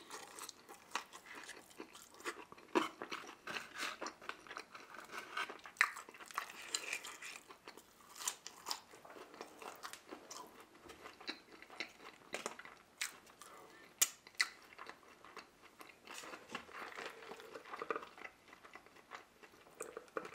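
Close-miked chewing and crunching of fast food, with wet mouth smacks and clicks coming irregularly throughout.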